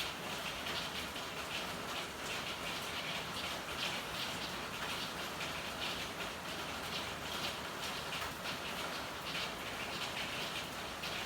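Steady rain falling, with many small irregular drips and splashes heard through an even hiss.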